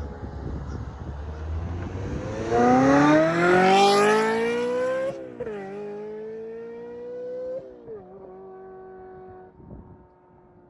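Ferrari 355 F1's V8 with a Capristo exhaust accelerating hard, its note climbing steeply in pitch to a loud, high scream. The pitch drops at two quick upshifts and climbs again after each, then fades away as the car pulls off.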